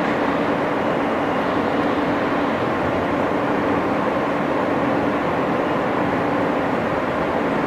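R160 subway car running between stations, heard from inside the car: a steady rumble of wheels on the rails with a steady hum.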